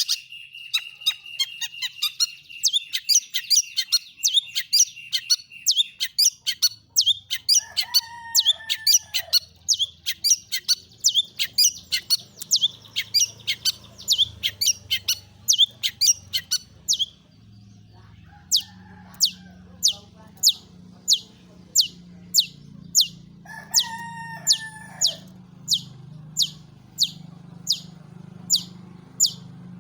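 Long-tailed shrike giving a long run of short, sharp, high calls, about two to three a second. Twice, at about a quarter of the way in and again past the three-quarter mark, it breaks in with a lower, drawn-out call. A faint low hum sits underneath from about seven seconds in.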